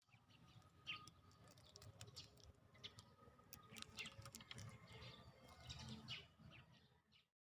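Faint, scattered bird chirps over near silence.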